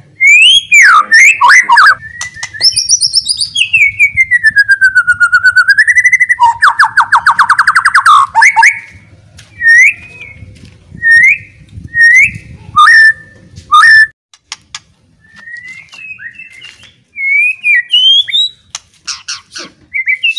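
White-rumped shama (murai batu) singing loudly in full song (gacor). The song is a string of varied whistled phrases: long sliding notes, a fast trill about six seconds in, then short separate whistles.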